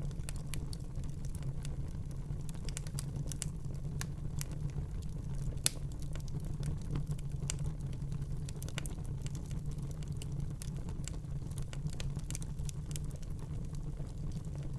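Wood fire crackling in a fireplace: a steady low rumble of flames with frequent sharp crackles and pops, one louder pop about six seconds in.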